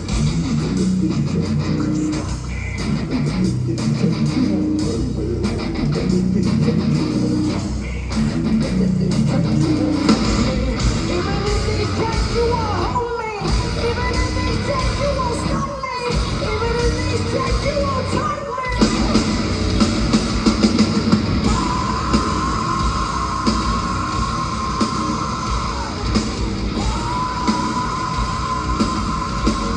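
Heavy metal music with distorted electric guitars and drums, and a vocal line over them.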